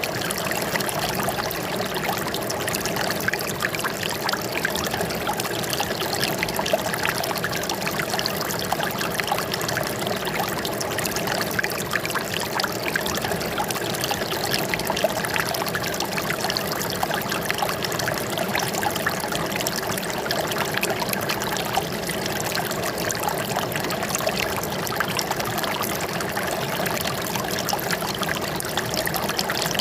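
Water flowing and trickling steadily, an even splashing that does not change.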